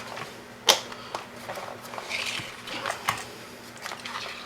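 Handling of wires and small plastic parts: a sharp click about a second in, another near three seconds, with smaller ticks and brief rustling between.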